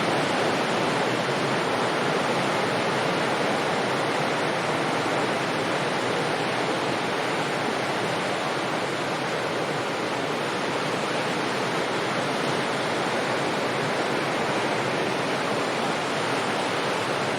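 Distant sea waves breaking on the shore, heard as a steady wash of surf with no separate breakers standing out; the level eases off slightly over the stretch.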